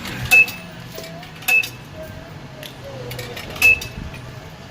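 Three sharp metallic clinks, each with a short ringing tone: coins dropping into a self-serve car wash's coin slot.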